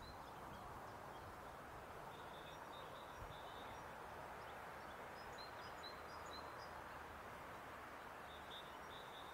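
Faint outdoor ambience: a steady low background hiss, with small birds chirping briefly now and then.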